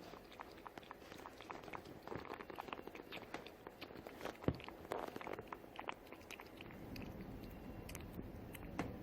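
Cat chewing and crunching food: irregular crunching clicks, the sharpest about four and a half seconds in.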